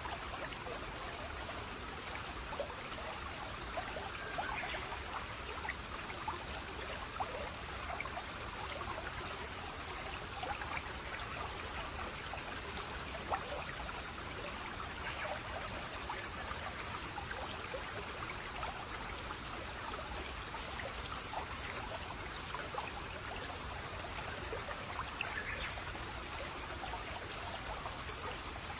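Running water of a small stream trickling and splashing steadily, with many small splashes over an even rush.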